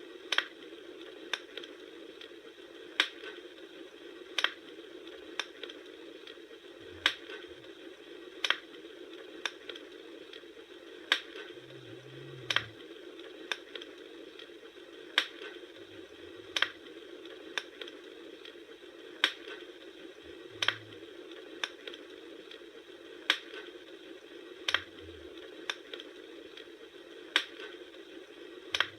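Crackling wood fire: sharp pops about once a second over a steady hiss, with a few faint low thuds.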